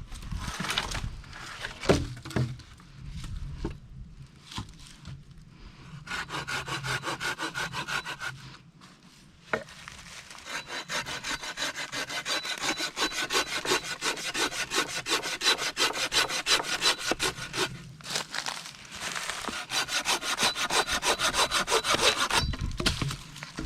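Hand saw cutting through firewood with quick, even back-and-forth strokes, in three runs separated by short pauses.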